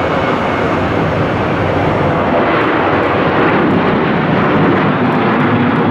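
Airliner engines running loud and steady as an aircraft passes.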